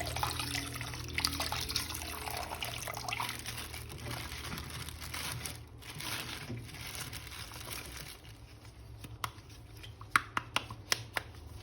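Water running and splashing as a plastic action figure is rinsed clean, fading after about eight seconds, followed by several sharp clicks near the end.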